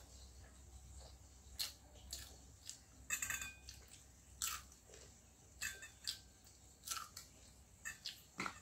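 Close-up eating sounds: wet chewing and lip smacks, about a dozen short sharp clicks, with a brief run of crunching about three seconds in.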